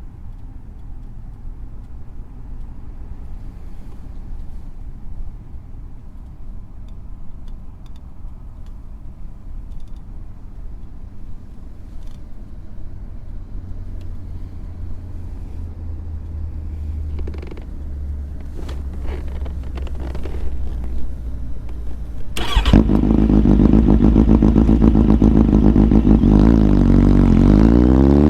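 Four-cylinder motorcycle engine ticking over with a low steady hum. About 22 seconds in a much louder engine sound comes in suddenly and runs on, then revs up with rising pitch near the end.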